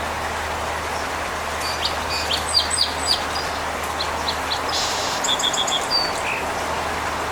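Small birds giving short, sharp chirps, a scattered run about two seconds in and a quicker series about five seconds in, over a steady background hiss.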